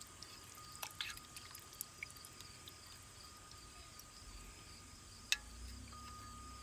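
Crickets chirping steadily, with a few faint clicks and one sharp click about five seconds in.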